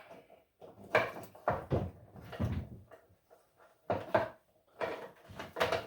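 Irregular knocks and clunks of hands and a power cord being worked around inside a wooden tool cart: about seven separate bumps with short pauses between them.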